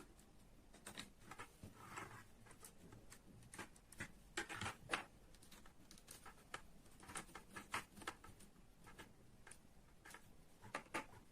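Faint, irregular small clicks and light taps, clustered most thickly about four to five seconds in and again near the end.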